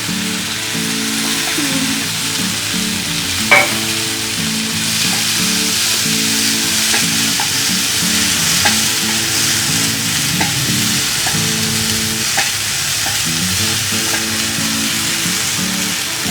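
Chopped tomatoes sizzling as they fry in a little oil in a frying pan. They are stirred, with a sharp clack on the pan about three and a half seconds in and light taps every second or two after that.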